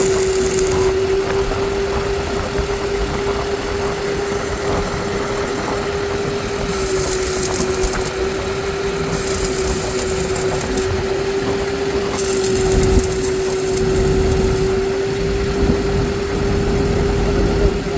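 An engine running steadily at constant speed with a held hum, with bursts of high hiss about seven and twelve seconds in.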